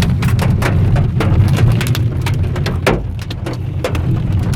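Hailstones striking a car's roof and windshield in irregular sharp hits, heard from inside the moving car over the steady low rumble of engine and road.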